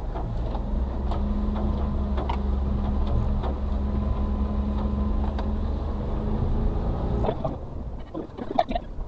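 Suzuki Carry kei truck's 660cc three-cylinder engine running steadily, heard from inside the cab, with scattered knocks and rattles. About seven seconds in the engine note drops away and a few sharp knocks follow.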